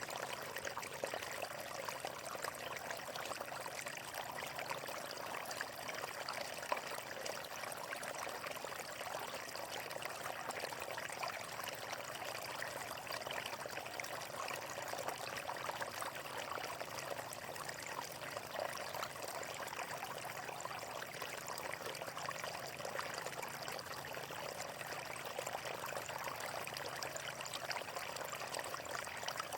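Water flowing and splashing steadily, a continuous pouring, trickling sound.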